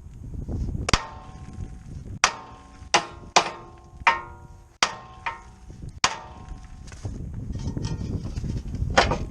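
Hammer blows on a metal part: about seven sharp, irregularly spaced strikes, each ringing briefly.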